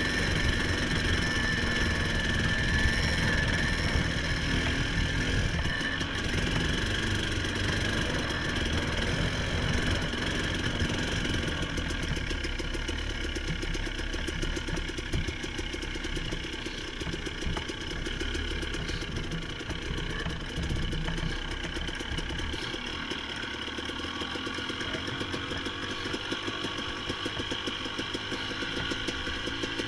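Small vehicle engine running steadily at low speed, its firing pulses evenly spaced; it drops a little in level about twelve seconds in.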